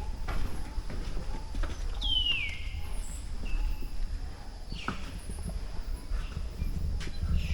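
Footsteps on stone with a low rumble underneath. About two seconds in, a jungle bird gives one falling whistle, followed by a short higher note.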